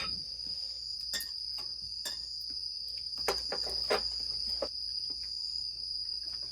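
Steady chorus of crickets, a continuous high-pitched trill, with a few scattered sharp clicks and knocks, the loudest two a little past the middle.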